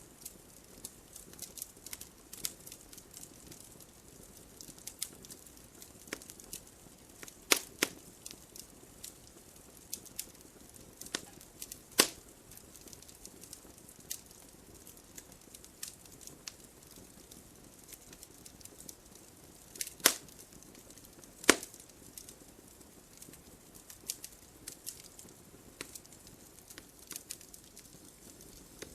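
Wood fire in a fireplace crackling: irregular sharp pops and snaps over a soft steady hiss, with a few louder cracks about a quarter of the way in, again near the middle, and twice about two-thirds of the way through.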